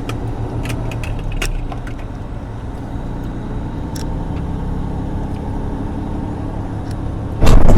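Semi-truck diesel engine running steadily, heard inside the cab, with a few light clicks and taps. A much louder rush of noise cuts in suddenly near the end.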